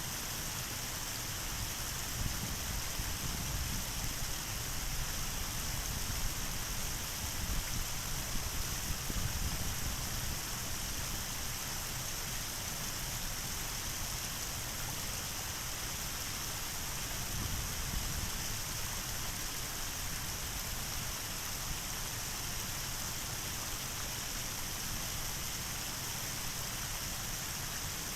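Steady rushing of water pouring down a small waterfall, with a low, uneven rumble that swells now and then.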